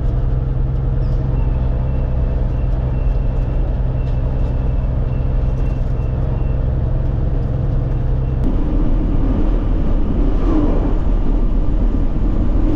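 Loaded truck driving on the road, its engine running with a steady hum. About eight seconds in the engine note drops away and a rougher, slightly louder road and engine noise takes over.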